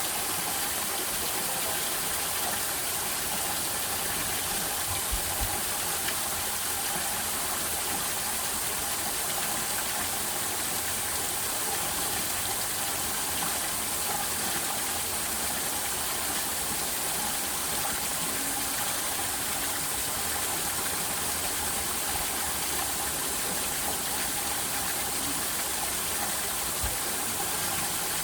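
Steady rushing noise of flowing water that does not change, with a couple of faint low knocks.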